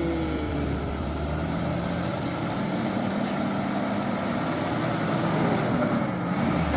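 Diesel truck engine running steadily at a low, even speed.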